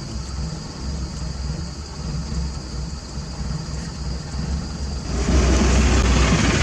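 Heavy diesel construction machinery running with a steady low hum. About five seconds in, a much louder rushing noise sets in and holds.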